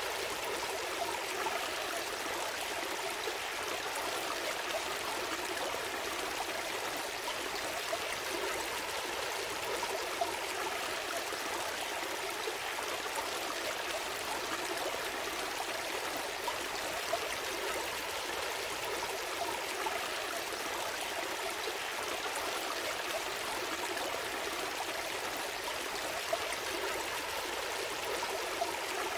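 A small stream flowing steadily, a constant rushing babble of water with occasional brief splashes.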